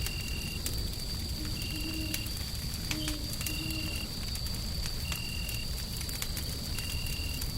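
Wood fire crackling with scattered sharp pops over a steady low rumble of white noise. A thin high tone runs underneath, and a short high chirp repeats evenly about every second and a half.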